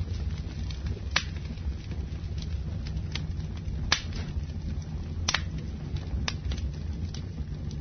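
Campfire burning: a steady low rumble of flames with sharp crackles and pops of burning wood, about one a second, the sharpest about a second in and near the middle.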